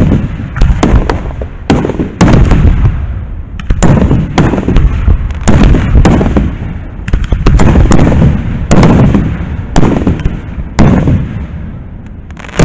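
Aerial firework shells bursting in quick succession: loud booms, one or two a second, each followed by a low rolling rumble. The booms thin out near the end.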